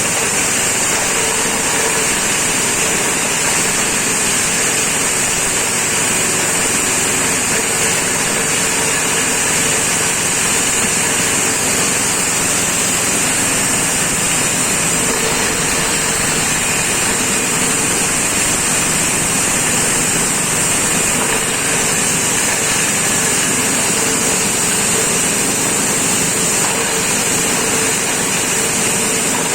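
Grass-chopper machine used as a corn-cob grinder, running steadily at full speed, with a constant high hiss over the machine noise.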